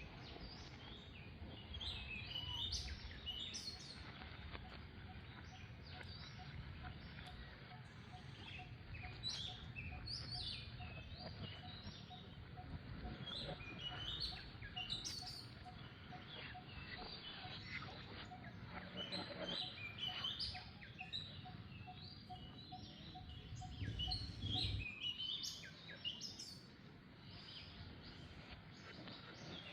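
Birds chirping in short, scattered calls throughout, over a low rumble of outdoor background noise that drops away near the end. A faint, evenly pulsed tone runs through the middle.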